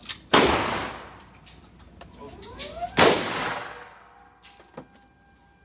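Two gunshots about three seconds apart, each a sharp crack followed by about a second of echo fading away.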